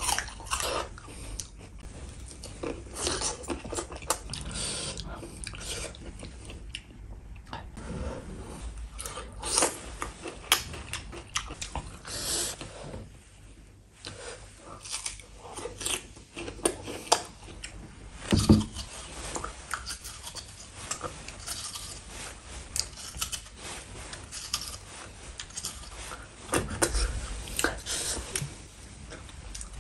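Close-miked biting and chewing of crisp raw fruit, an apple among it, with irregular crunching bites and one especially loud crunch a little past the middle.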